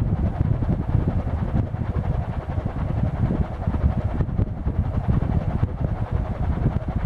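Casablanca Avalon ceiling fan with fabric Newport blades running, its moving air buffeting the microphone in a loud, uneven low whoosh.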